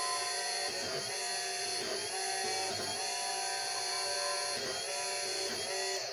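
A workshop machine's motor running steadily with a constant whine.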